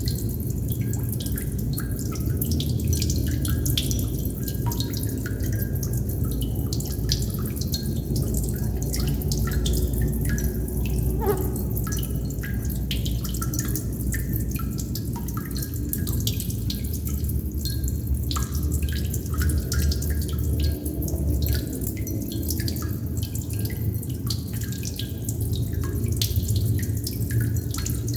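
Water droplets dripping irregularly, many drops a second landing with small sharp plinks, over a steady low rumble.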